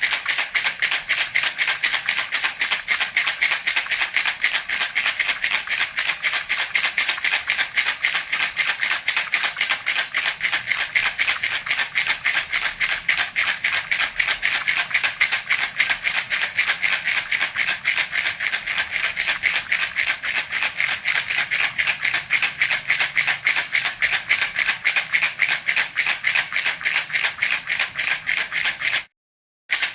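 Baby rattle (jhunjhuna) shaken continuously in a quick, even rhythm, a bright rattling of small beads. It breaks off for about half a second near the end, then carries on.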